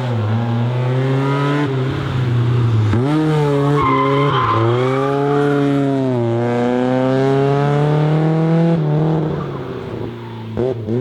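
BMW M3 E30's S14 four-cylinder engine revving hard under acceleration. The pitch climbs, then drops sharply at each gear change, several times over. Near the end it eases off and quietens, with a couple of short blips.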